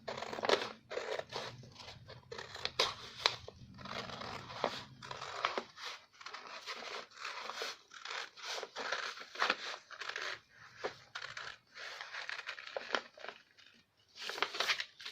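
Scissors cutting through pattern paper: a long run of irregular snips with the paper rustling, broken by short pauses.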